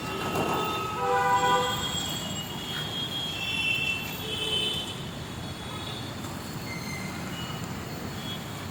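Road traffic at a busy junction, with several vehicle horns of different pitches honking over one another in the first few seconds, then a steady rumble of traffic noise.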